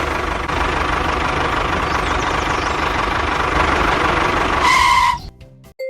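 Motor of a small home-made tractor running steadily with a low rhythmic chug. Near the end a short steady beep sounds, then everything cuts off.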